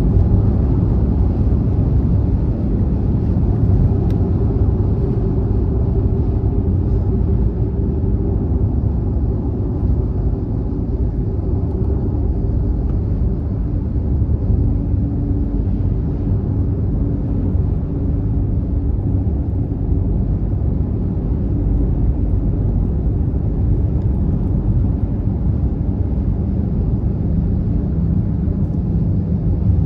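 A car driving at motorway speed, giving a steady low rumble of road and engine noise.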